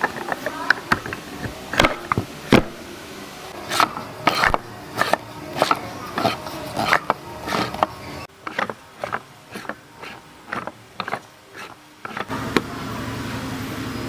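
Irregular sharp wooden taps and knocks, a few a second, as wooden parts are handled and worked on a bench. About a second and a half before the end a steady low hum sets in.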